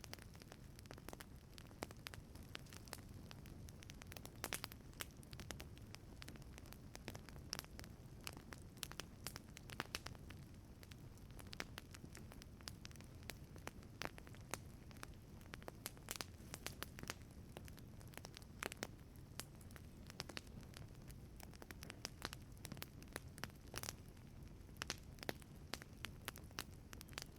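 Wood fire burning in a wood-fired pizza oven: frequent, irregular sharp crackles and pops over a faint, steady low rumble of the flames.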